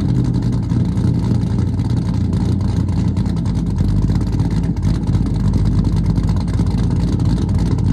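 Vehicle engine running loudly and steadily, with a fast pulsing exhaust note.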